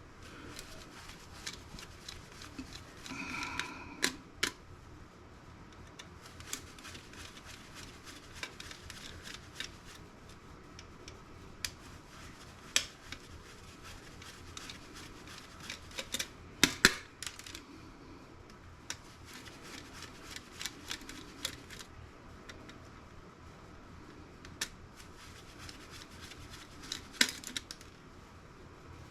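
Small metal and plastic parts of a laptop optical drive clicking and scraping as they are handled and pried apart by hand. Scattered clicks, a few sharper ones standing out, with light rubbing between them.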